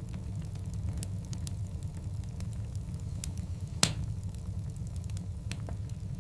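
Wood fire burning, with scattered sharp crackles over a steady low rumble, and one loud pop a little before four seconds in.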